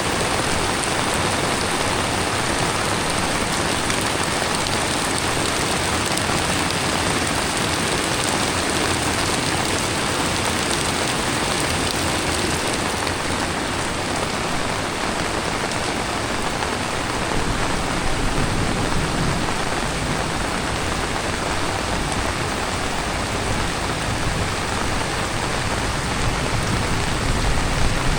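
Heavy tropical rain falling steadily. A low rumble joins in from about two-thirds of the way through.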